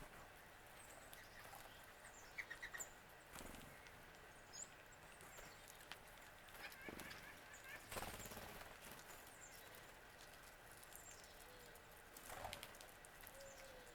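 Faint wild bird calls: a few short, high chirps scattered through, with a quick run of notes about two and a half seconds in. Soft rustles or knocks come in three times, the clearest about eight seconds in.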